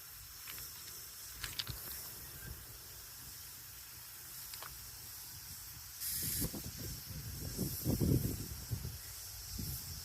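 Faint outdoor ambience: a steady high hiss with uneven low rumbling that grows stronger from about six to nine seconds in.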